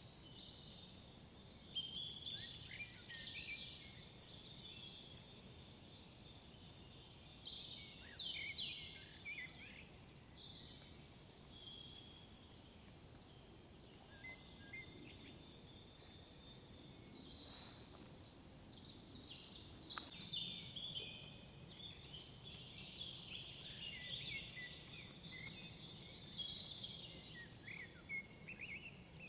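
Several songbirds singing at once, with overlapping chirps and warbles and a high, thin trill repeated several times.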